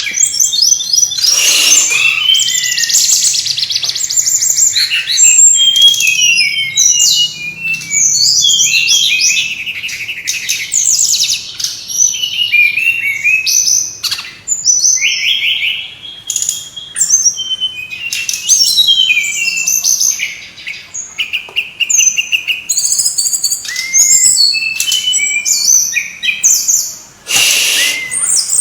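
Brown-chested jungle flycatcher (sikatan rimba dada coklat, SRDC) singing a busy, fast song of high chirps, trills and quick whistled phrases, with only short pauses.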